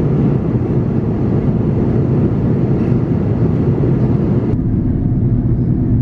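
Steady cabin noise inside an Airbus A330-300 in descent: a low rumble of airflow and its Pratt & Whitney PW4168A engines, with a hiss above it. The hiss drops away suddenly about four and a half seconds in, leaving the low rumble.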